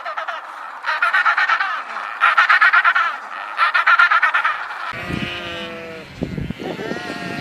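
Bird calls, harsh and rapidly pulsed, in three bouts, followed about five seconds in by a different animal's lower, wavering call.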